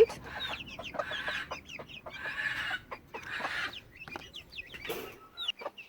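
Silkie chickens and chicks calling: many short, quick, falling peeps and clucks, with rustling now and then.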